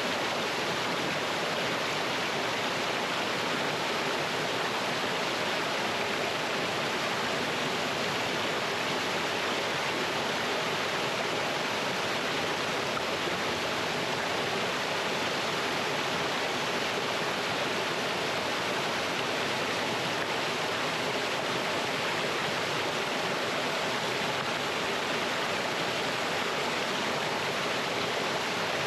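Small mountain stream rushing over rocks in a steady, even flow.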